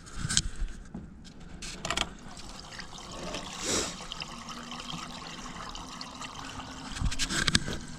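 Gasoline trickling and pouring from a tipped-up gas can into a truck's fuel filler without a funnel, part of it spilling outside. Sharp knocks and clunks of the can come near the start, about two seconds in, and in a cluster near the end.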